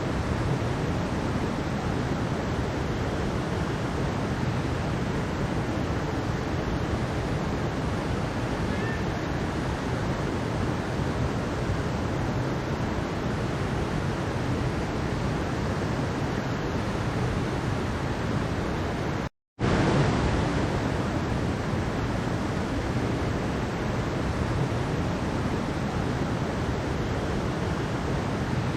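Mountain stream rushing steadily over rocks, an even, unbroken wash of water. About two-thirds of the way through, the sound drops out completely for a split second, then resumes.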